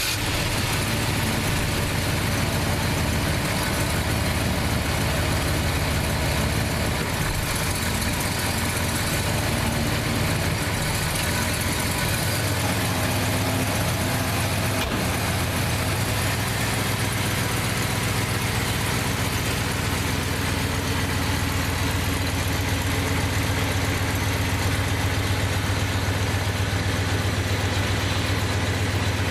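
A 1968 Plymouth Fury's 383 V8 idling steadily, just after being started.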